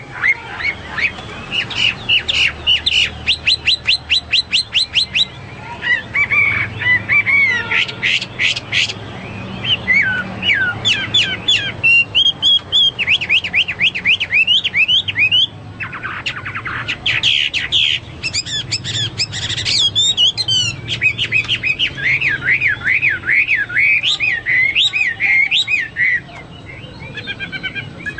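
Chinese hwamei (melodious laughingthrush) singing vigorously in long, varied phrases: rapid runs of repeated notes, trills and up-and-down whistles, with a few short pauses.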